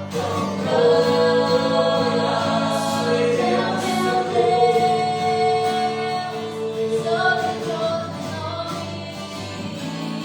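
Portuguese worship song: several voices singing long, drawn-out notes over a steady instrumental backing.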